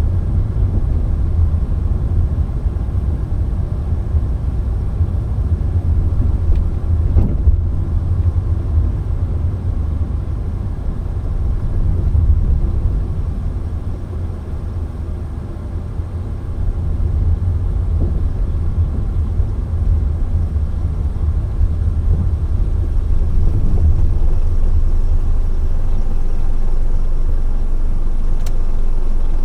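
Road and engine noise of a moving car, heard from inside it: a steady low rumble.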